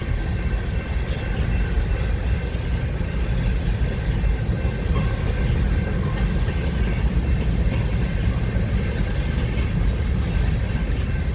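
A train passing, with a steady low rumble.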